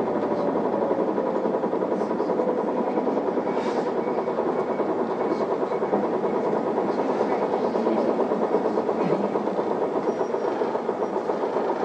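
Inside an Isuzu PKG-Erga city bus under way: steady engine and road noise, with a few faint rattles.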